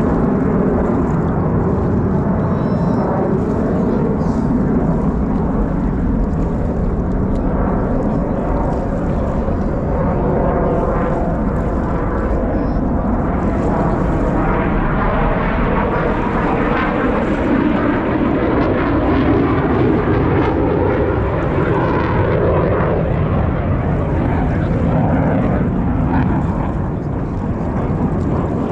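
Blue Angels F/A-18 Super Hornet jets flying over with a continuous loud engine roar. In the second half the tone sweeps and shifts as the jets pass by.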